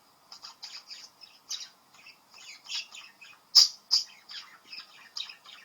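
Young budgerigar chattering: a quick run of short chirps and warbles, with two louder, sharp squawks a little past halfway.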